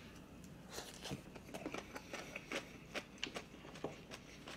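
A person chewing food with the mouth closed: faint, irregular wet clicks and smacks, a few each second.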